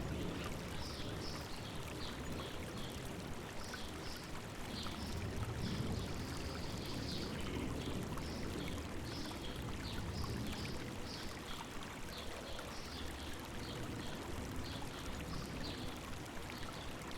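River water running steadily, with small birds chirping high, short notes over it again and again.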